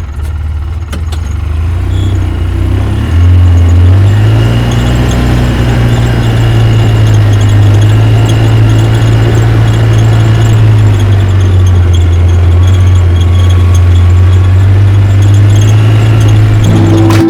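A vehicle engine running steadily with a deep hum, its pitch stepping up about three seconds in and dropping slightly about eleven seconds in.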